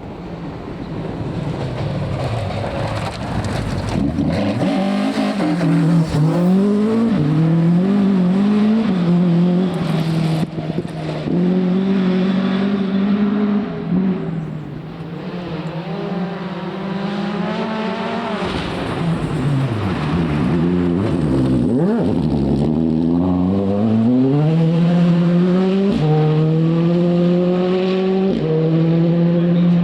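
Rally car engine driven hard on a stage, its note building over the first few seconds as it approaches. The revs climb and fall repeatedly, with several abrupt gear changes.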